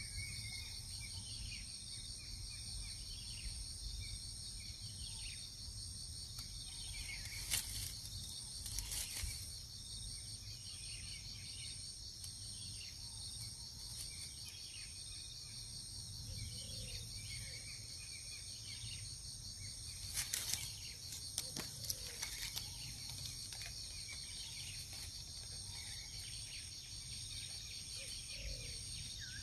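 Steady high-pitched insect chorus with scattered short bird chirps. A few short clicks sound about eight seconds in and again about twenty seconds in.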